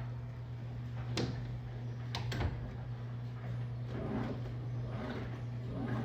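Electrolux LTM16 washing machine running with a steady low hum. Two sharp knocks come in the first half, then a rhythmic swishing about once a second.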